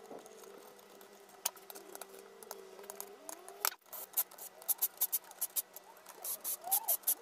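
Small metal parts and hand tools being handled on a workbench: scattered light clicks and clinks that come quicker and louder from about halfway through.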